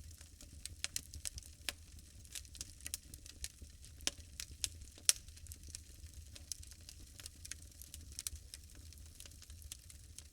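Wood bonfire crackling, with many irregular sharp pops and snaps, the loudest about five seconds in, over a faint low rumble.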